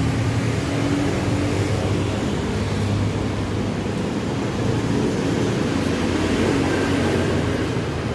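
Street traffic: the engines of vehicles running close by, a steady low hum with a shifting pitch.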